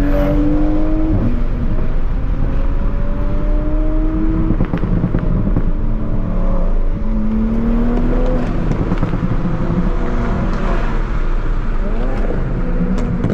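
Tuned Toyota Supra MK5's B58 turbocharged inline-six accelerating hard. Its note climbs steadily in pitch and falls back several times, about 1, 4.5 and 8.5 seconds in, over loud road rumble.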